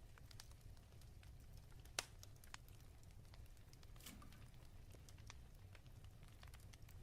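Faint fireplace crackling: scattered small pops and snaps over a low steady rumble, with one sharper pop about two seconds in.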